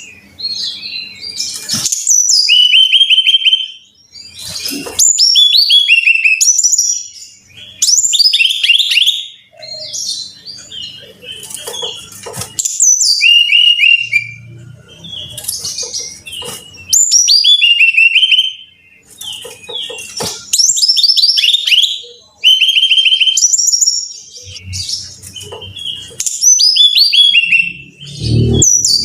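Brown-chested jungle flycatcher singing: loud, repeated phrases of high whistles and quick falling trills, about one phrase every two seconds, with short pauses between.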